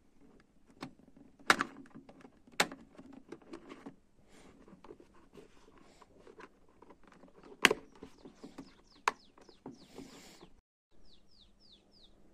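Irregular sharp clicks and knocks of objects being handled, with four loud strikes standing out. Near the end come four short high chirps, each falling in pitch.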